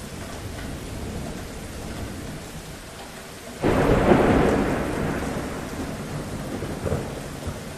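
Steady rain with a thunderclap that breaks in suddenly about three and a half seconds in, then rumbles and slowly fades.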